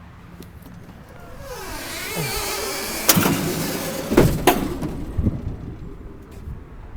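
Heavy truck bodywork being moved and shut: a rising rush of noise, then a sharp clunk about three seconds in and two more close together about a second later.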